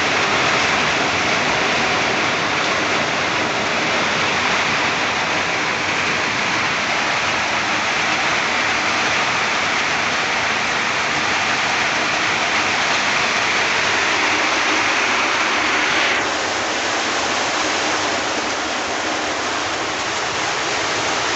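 Heavy rain falling with a dense, steady hiss, easing slightly about three-quarters of the way through.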